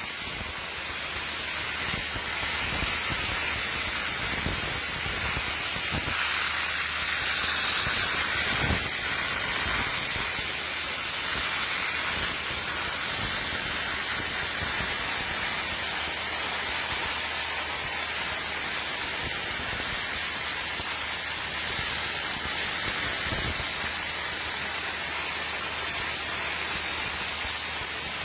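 Dry ice blaster's nozzle jetting compressed air and dry ice pellets in a loud, steady hiss, blasting old factory foam off a car body.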